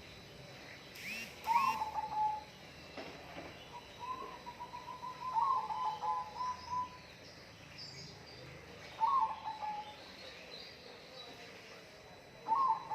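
A bird calling over and over in short phrases of quick, stuttering notes at one middle pitch. There are about four phrases with pauses between them and a longer run in the middle. Two brief, sharp chirps come about a second in.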